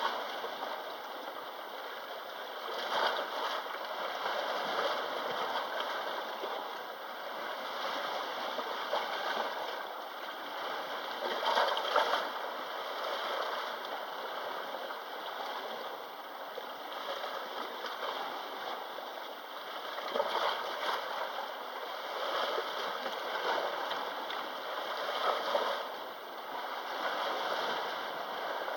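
Sea waves washing onto the shore, a constant rush of surf that swells louder every few seconds as waves break.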